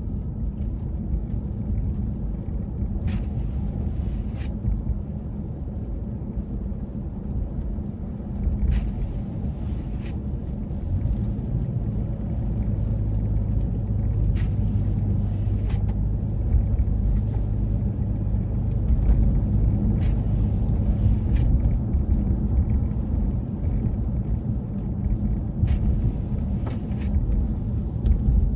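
Steady low rumble, like a vehicle running, with a low hum that grows a little stronger about halfway through and a few faint scattered clicks.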